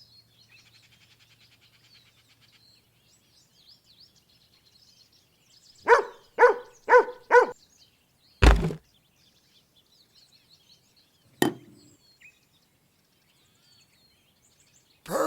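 Faint birds chirping in the background, broken by four short pitched tones about half a second apart, then a heavy thump and later a single sharp click.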